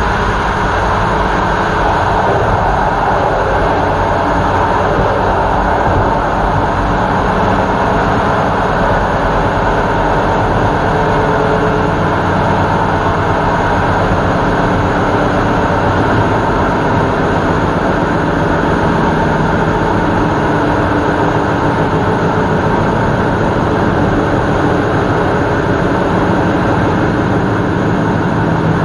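Passenger train running along the track, a steady loud rumble and rush of wheels on rails heard from the rear of the train.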